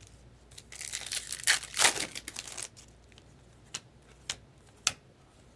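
Trading-card pack wrapper being torn open and crinkled for about two seconds, followed by a few sharp clicks as the cards are handled.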